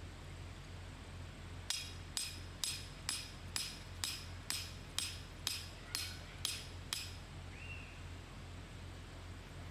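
A run of twelve sharp metallic strikes, evenly spaced at about two a second, each with a brief ringing tail, starting a couple of seconds in and stopping about two seconds before the end.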